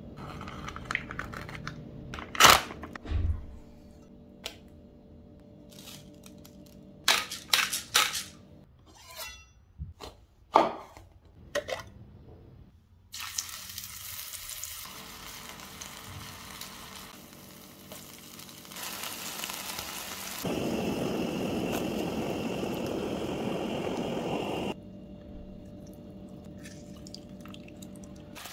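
A few sharp knocks and clatters of kitchen handling, then mahi-mahi fillets sizzling in butter in a cast-iron skillet, the sizzle louder for several seconds past the middle before settling back.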